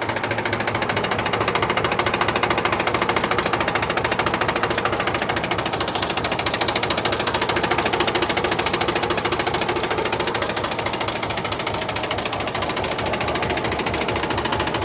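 Mahindra 265 DI tractor's three-cylinder diesel engine running steadily with a fast, even clatter.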